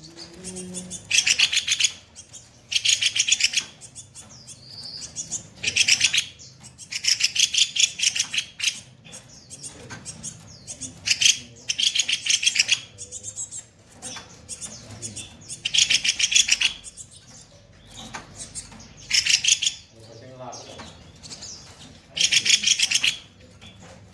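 A kopi-kopi bird giving repeated harsh, rapid rattling trills, the rough 'shot' phrases prized by Indonesian bird keepers. Each burst lasts about a second and comes every one to three seconds.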